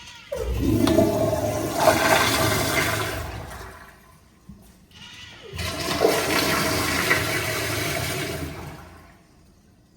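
Toilet flushing twice: a rush of water that fades out after about four seconds, then a second flush starting about halfway through that fades out near the end.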